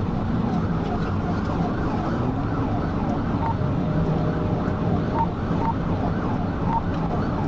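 Police patrol car running at high speed in a pursuit: steady, loud road, wind and engine noise, with a siren wailing under it.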